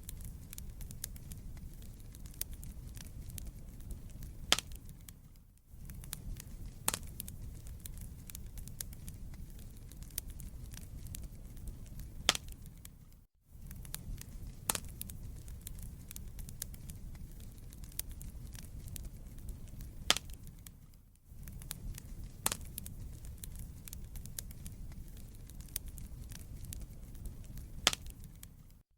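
Wood fire in a fireplace crackling: a steady low rumble of flames under irregular sharp pops and snaps of burning logs. The sound briefly fades out and back in about every eight seconds.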